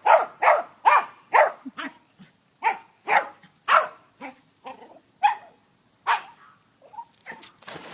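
Dog barking repeatedly in short, sharp barks, about two a second, pausing briefly about two seconds in and growing fainter near the end.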